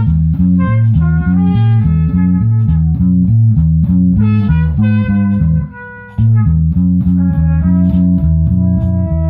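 Instrumental jam: a busy, rhythmic bass-guitar line with a higher plucked melodic line played over it. The music drops out briefly about six seconds in, then picks up again.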